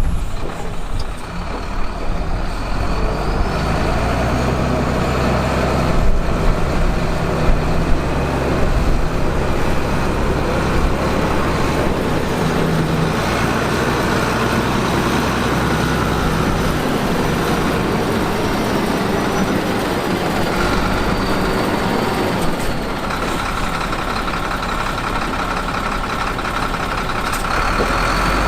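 Heavy diesel earthmoving machinery running steadily under load, with a few short knocks along the way.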